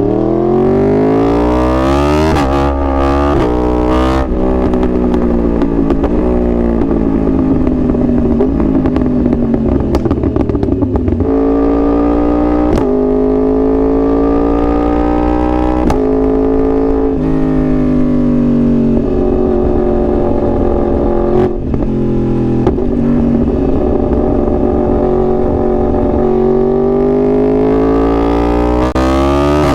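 2021 Yamaha R1's crossplane inline-four engine at full throttle, the revs climbing steeply in the first two seconds, then broken by a quick run of upshifts. It then pulls on with the engine note rising and falling, dropping around the middle and climbing again near the end.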